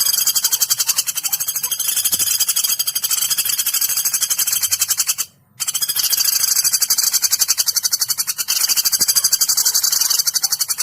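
Woodpecker calls, the pelatuk beras/pelatuk bawang sounds used as a masteran (training recording) for songbirds: long runs of rapid, high-pitched, harsh repeated notes, broken by a brief pause about five seconds in.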